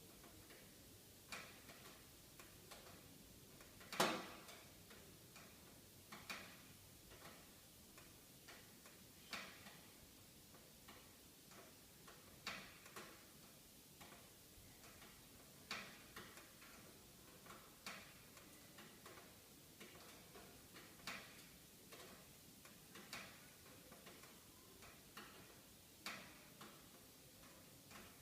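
Wood fire in a fireplace crackling: irregular sharp pops every second or two, the loudest about four seconds in.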